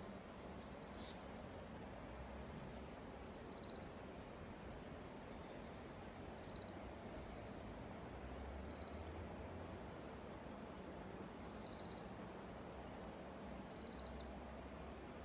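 A small bird gives a short trilled call every two to three seconds, and a rising whistled note comes about six seconds in. These are heard over a faint, steady outdoor hiss.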